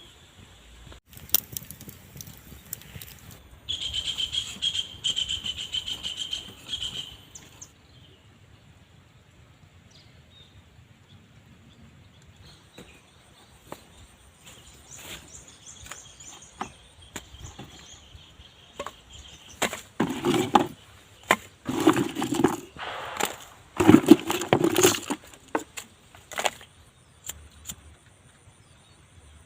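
Outdoor ambience with a bird's high, steady trilling call a few seconds in, then a run of loud, short rustling and knocking bursts about two-thirds of the way through.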